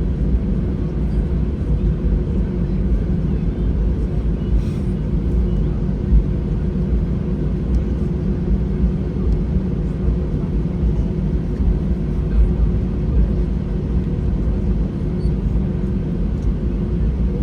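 Airbus A320 cabin noise on the ground: the engines run at a steady low hum with a constant tone, not rising.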